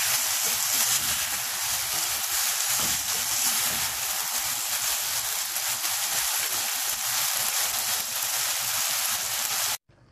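Dry chilli chicken (chicken strips, green capsicum and sauce) sizzling in a nonstick wok, a steady hiss; the dish has just been declared ready. The sizzling cuts off suddenly near the end.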